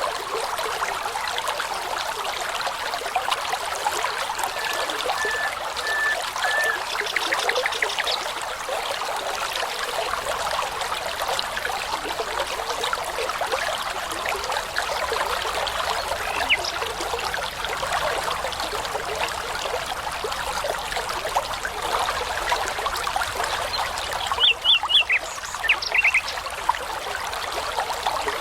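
Babbling brook with a steady rush of water, and songbirds singing over it. About five seconds in a bird gives a run of short, even whistled notes followed by a rapid trill; near the end comes a burst of loud, high chirps.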